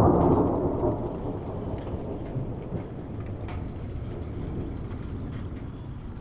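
Thunder rumbling, loudest in the first second, then trailing off into a steady low rumble.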